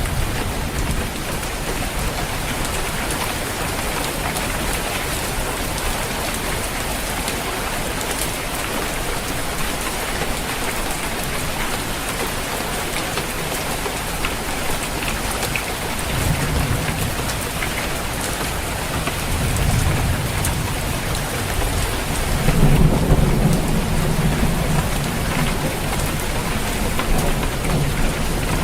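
Steady heavy rain falling on a roof, with low rolling thunder swelling up about halfway through and loudest near the end.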